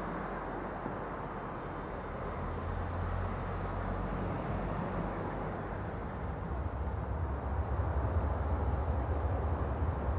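Low, steady rumble of approaching EMD diesel freight locomotives, growing louder over the last few seconds.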